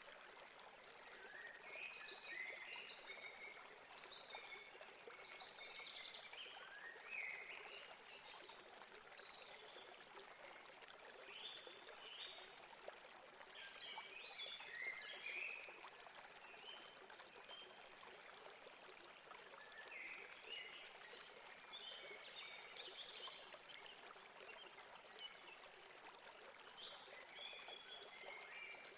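Faint stream of water running steadily over rocks, with small birds chirping in short bouts every few seconds.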